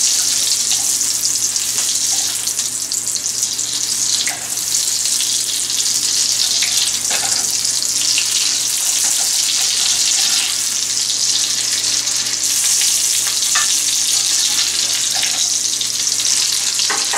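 Onion slices sizzling in hot fat in a cast-iron skillet: a steady high hiss, with a metal spatula scraping and turning them now and then.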